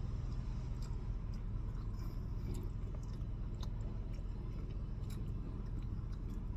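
Someone chewing food close to the microphone, with scattered small clicks and crunches, over a steady low hum.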